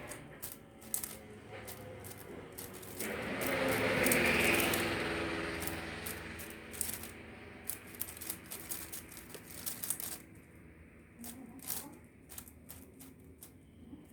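Plastic 5x5 puzzle cube being turned fast: a run of sharp clicks and rattles from its layers. About three seconds in, a louder rushing background noise swells up, peaks and fades away over the next few seconds.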